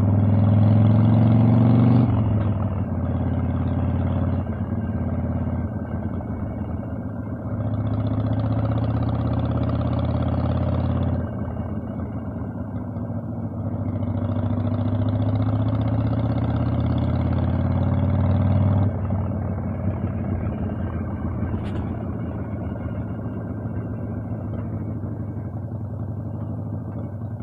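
Harley-Davidson Evolution V-twin engine on the move, heard from the saddle: the exhaust swells three times under throttle, the pitch climbing in the last pull, and drops back as the throttle eases off. A short click sounds about 22 seconds in.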